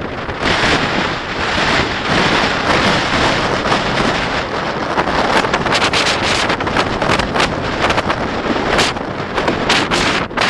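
Strong wind buffeting the microphone: a loud, rushing rumble broken by frequent short crackles, which come thicker in the second half.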